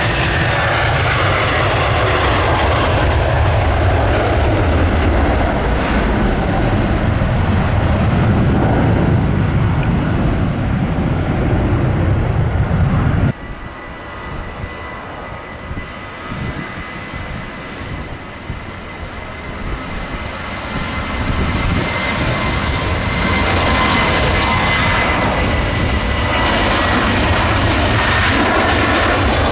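Jet airliner engines at takeoff power. For the first part, an Airbus A321-200 gives a loud deep rumble that cuts off abruptly. After it, a Boeing 737-700's CFM56 turbofans give a quieter steady whine that builds in loudness as the takeoff run begins.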